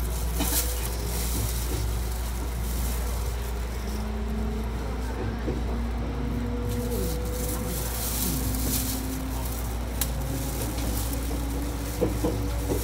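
Electric train running slowly out of a station, heard from inside the carriage: a steady low rumble with a faint motor whine that rises slowly as it gathers speed, and a couple of sharp knocks from the wheels near the end.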